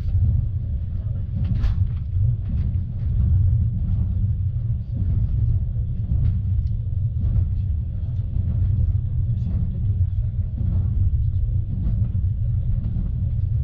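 Passenger train running, a steady low rumble with scattered light clicks and knocks, one sharper click about two seconds in.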